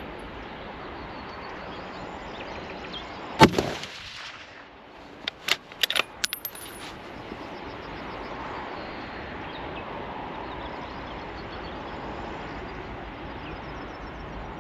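.308 Tikka T3X TAC A1 bolt-action rifle firing a single loud shot about three and a half seconds in, with a brief ringing tail. About two seconds later comes a quick series of sharp metallic clicks, the bolt being worked to chamber the next round.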